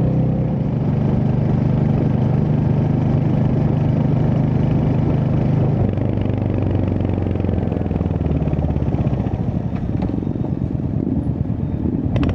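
Royal Enfield Hunter 350's single-cylinder engine running at a steady road speed, heard from the rider's seat. Its note drops to a lower pitch about halfway through.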